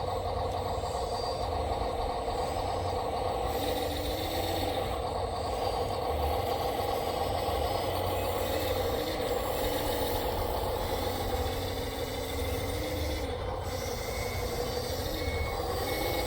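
Electric drive motors and gearing of radio-controlled construction machines whining steadily, the pitch rising and falling as they are driven. Near the end a run of short high beeps like a reversing alarm starts.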